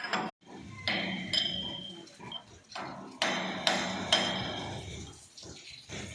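Hammer blows and clanks on the metal parts of a tea-rolling table being dismantled for overhaul. There are about five sharp strikes at irregular spacing, each leaving a short metallic ring.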